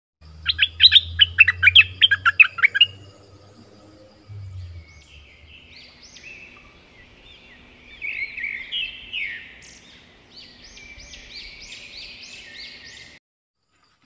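Bulbul singing a fast run of about a dozen loud, sharp notes over the first three seconds. After that come fainter, repeated rising sweeping tones that stop shortly before the end.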